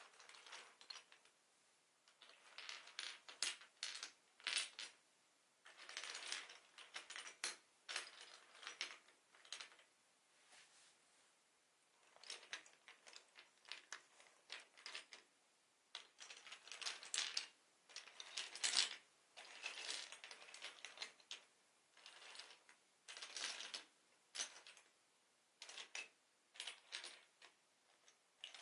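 LEGO bricks being handled, hard plastic pieces clicking and clattering against each other in irregular clusters with short pauses between.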